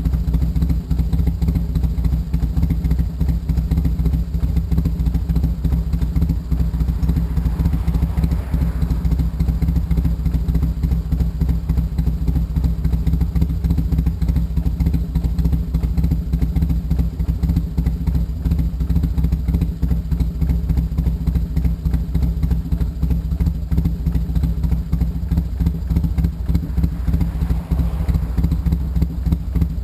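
1991 Harley-Davidson Sportster XL883's air-cooled 883 cc Evolution V-twin idling steadily through a custom-built Bassani Road Rage exhaust, warming up after a cold start.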